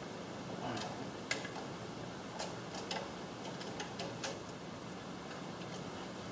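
A few irregular light clicks and taps from small parts being handled over a steady low background hum, the loudest about four seconds in.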